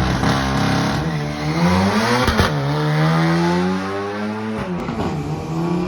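Drag-racing car accelerating hard down the strip, its engine note climbing in pitch and dropping twice at upshifts, about two seconds in and again near five seconds.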